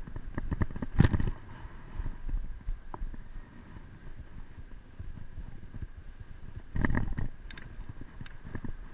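Rattles and knocks from a bicycle being ridden over bumps, loudest about a second in and again near seven seconds, over a low rumble of wind on the microphone.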